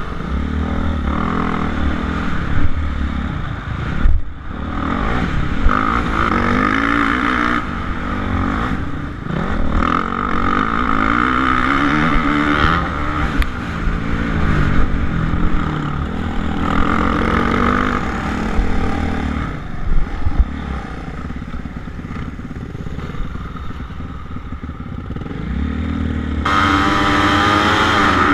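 Suzuki RM-Z450 motocross bike's four-stroke single-cylinder engine being ridden hard, its revs rising and falling again and again through the lap, with a few sharp knocks along the way.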